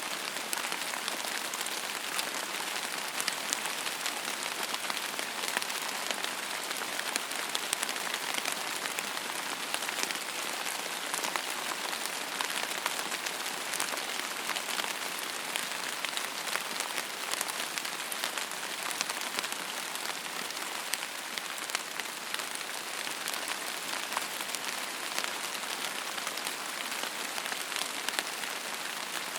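Steady rain falling, an even hiss with many small sharp ticks of single drops striking close by.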